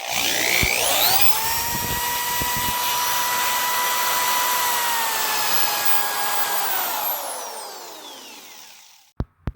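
Power tool's electric motor spinning up, running at a steady high whine for about six seconds, then winding down with falling pitch as it coasts to a stop. Two short clicks come near the end.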